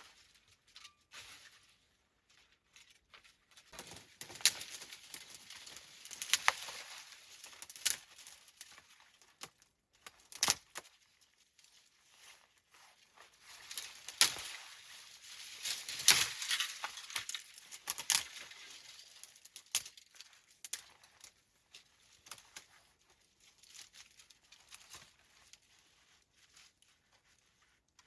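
Irregular rustling and crinkling with scattered sharp clicks, busiest in the middle stretch and thinning out near the end.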